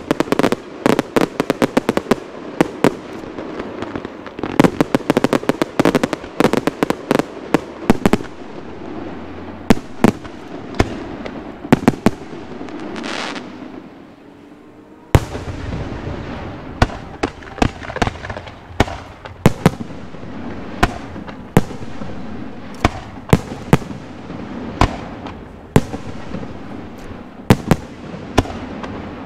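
Aerial fireworks show: rapid volleys of sharp bangs from shells bursting overhead. Around the middle a shell goes up with a rising whistle, followed by a short lull. Then the bangs start again suddenly and continue at a steadier pace.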